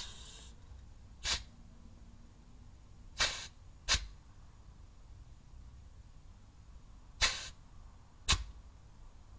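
Pneumatic grease gun pumping grease into a driveshaft universal joint in short air bursts, five in all spaced one to four seconds apart; two of them are longer hisses, each followed within a second by a sharp click.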